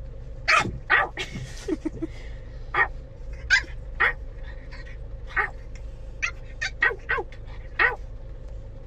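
A dog barking in short, sharp barks, about a dozen spaced irregularly, some with a whining note.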